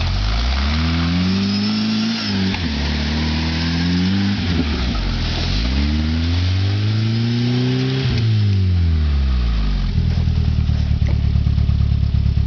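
Jeep engine revved up and down in three long swells, the last the longest, then settling back to a steady idle near the end.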